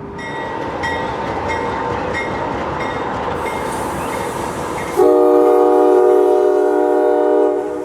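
Diesel freight locomotive running with a bell ringing about twice a second, then one long horn blast that starts suddenly about five seconds in and is the loudest sound.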